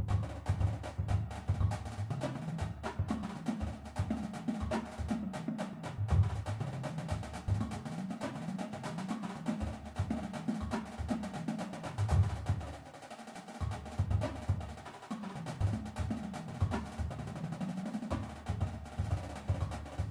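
Marching percussion playing a fast, technical chop-out: dense rapid drum strokes and rolls, with lower drum tones stepping up and down in pitch. The playing thins out briefly in the middle.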